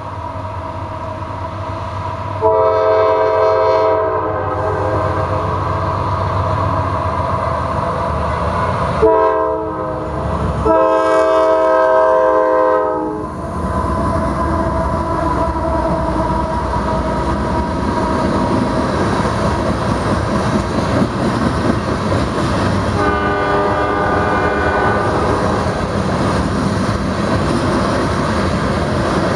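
Two GE diesel locomotives, a C40-8W leading and an AC44CW trailing, passing with their air horn sounding: a long blast about two and a half seconds in, a short then a long blast between about 9 and 13 seconds, and a fainter blast around 23 seconds. Throughout runs the steady rumble and wheel clatter of a train of empty steel coal cars rolling by.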